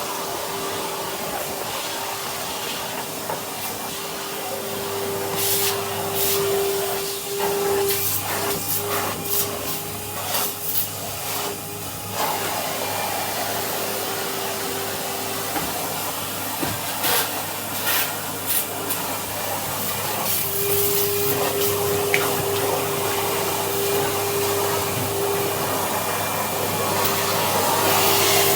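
Vacuum cleaner with a brush tool running, a steady motor whine over its roar. Bursts of clicks and rattles come from about five to twelve seconds in and again from about seventeen to twenty-two seconds in.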